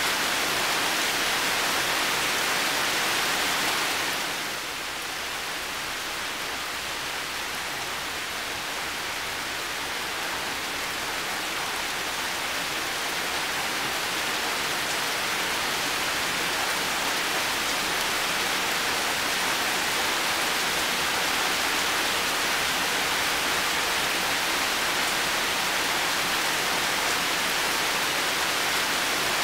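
Heavy rain falling steadily as a dense, even hiss. It softens briefly about four seconds in, then gradually builds back up.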